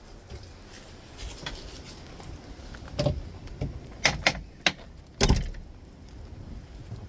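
A few sharp knocks and clunks over a steady low background: one about three seconds in, then a quick cluster of four between four and five and a half seconds, the last the loudest.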